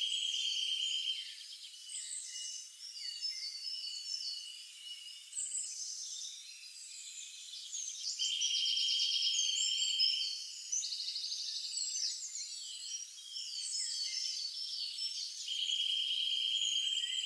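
A dawn-chorus-style recording of many birds chirping and calling over one another. A long, even trill comes back three times, about every seven or eight seconds.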